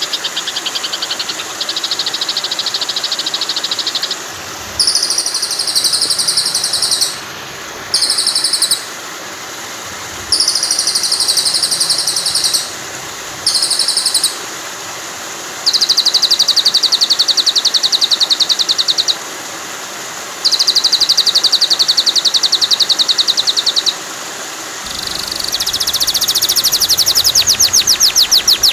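Songbird song on a masteran track for training white-rumped shamas: fast, high trilling phrases, each one to four seconds long, repeated with short pauses. Beneath them runs a steady hiss of flowing water.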